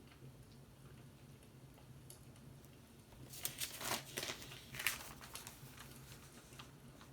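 Fireplace crackling, faint: scattered small pops over a low hum, with a burst of louder crackling about three and a half seconds in that lasts about two seconds.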